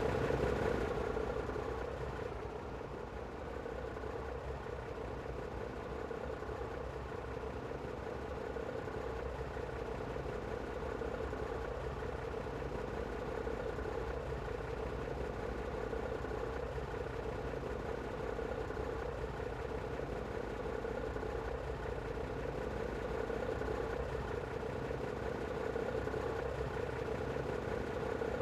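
Scania coach's diesel engine idling steadily, with a constant mid-pitched hum and no revving.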